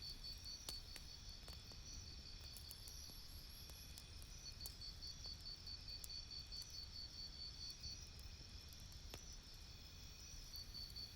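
Campfire crackling softly, with a few sparse sharp pops over a low steady rumble. A high chirp pulses about five times a second throughout and drops out for a few seconds near the end.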